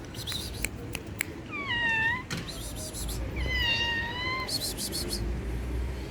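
Kitten meowing twice, two high drawn-out meows, the second longer, with a few sharp clicks just before them.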